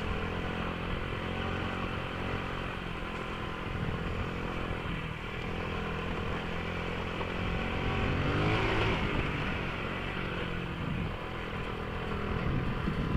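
A 1997 Honda 50R pitbike's 50 cc engine running as the bike is ridden around a dirt lap. It revs up and rises in pitch about eight seconds in, then eases back off.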